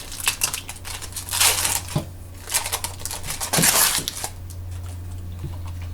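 A foil trading-card pack wrapper being torn open and crinkled, in a couple of short crackling bursts, with a few light clicks.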